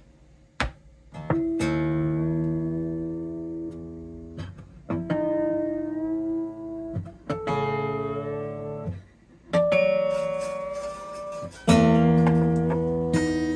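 Steel strings of a Martin acoustic guitar plucked one at a time and left to ring, about six notes a second or two apart, as freshly stretched new strings are brought up to pitch. A few short clicks come before the first note.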